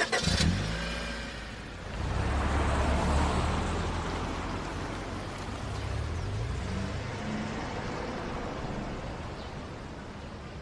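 A car door shuts with a sharp knock, then a car engine rumbles low, swelling about two seconds in and slowly fading.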